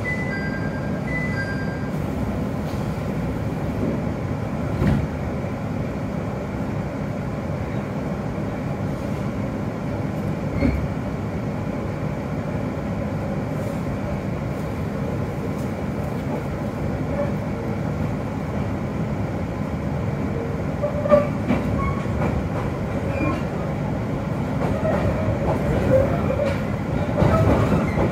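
Cabin of a local electric train pulling out of a station: a steady low rumble and hum, with a few short beeps right at the start. From about three-quarters of the way in, the running noise grows louder, with motor tones and wheel clacks, as the train picks up speed.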